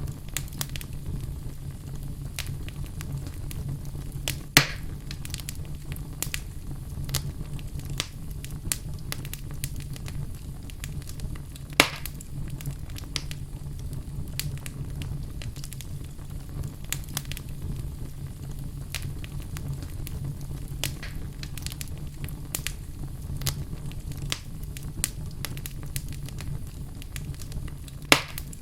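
Wood fire crackling in a fireplace: a dense scatter of small crackles over a steady low rumble, with three sharper, louder pops spread through it, the last near the end.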